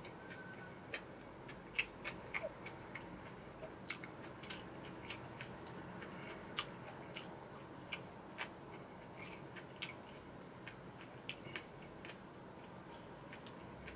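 Faint close-miked chewing with the mouth closed: small, irregular wet mouth clicks a few times a second over a low steady room hum.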